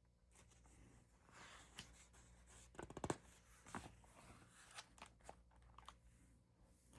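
Faint paper rustling and small clicks, with a brief cluster about three seconds in: the pages of a picture book being handled and turned.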